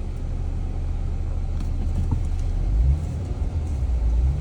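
Jeep's engine and tyres giving a steady low rumble as it drives slowly along a dirt off-road trail, swelling briefly about three seconds in.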